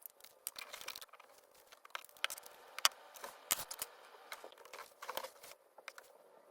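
Irregular crinkling and rustling with a string of sharp clicks, as of paper or plastic being handled, loudest about halfway through.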